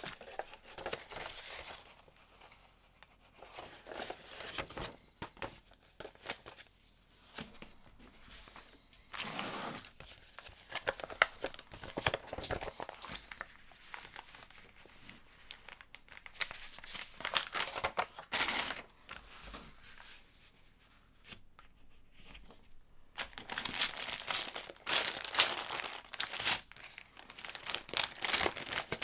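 LEGO set packaging being handled and torn open: irregular bursts of crinkling and tearing with short pauses in between.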